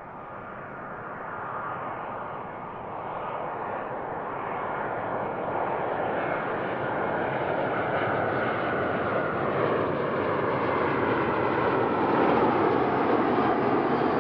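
Jet airliner's engines growing steadily louder as it approaches, with a whine that falls slightly in pitch in the second half.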